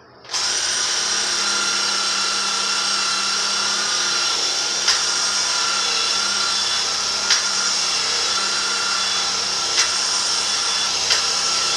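Hammer drill running steadily under load, driving a worn-out step drill bit into steel. Its motor holds a constant whine, with a few sharp ticks every couple of seconds.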